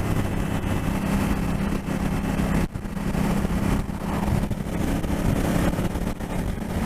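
Motorcycle engine running at a steady note while riding, with wind rushing over the helmet microphone; the sound drops out briefly a little under three seconds in.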